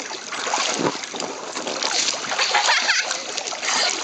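Water splashing and sloshing in uneven surges, with wind buffeting the microphone.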